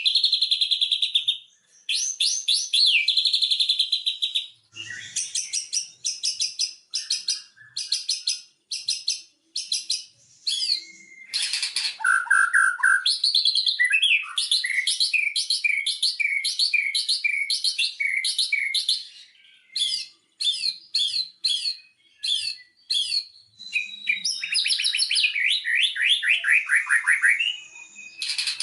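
White-rumped shama (murai batu) singing a long, varied song: fast runs of sharp chirps, gliding whistles and trills, broken by a few short pauses.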